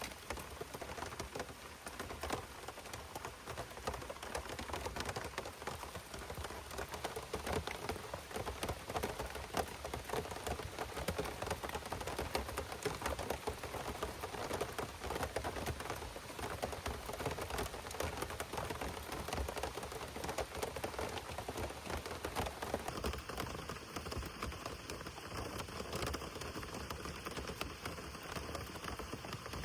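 Heavy rain falling steadily, a dense hiss thick with the ticks of individual drops.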